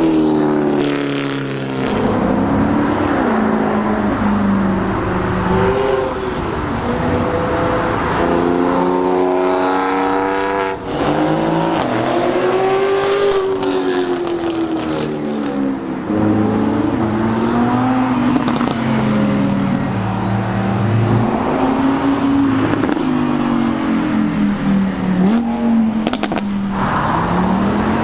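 Chevrolet Corvette V8 engines accelerating past, the engine note climbing and dropping again and again through gear changes, over several passes.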